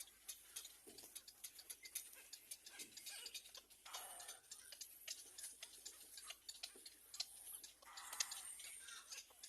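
Faint, irregular clicking and soft rustling from small birds moving about in a nest, many small ticks a second.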